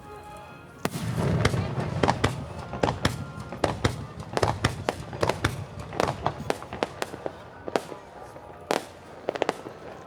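Aerial fireworks shells bursting in rapid succession: a dense run of sharp bangs and cracks with a low rumble, starting about a second in and thinning out near the end.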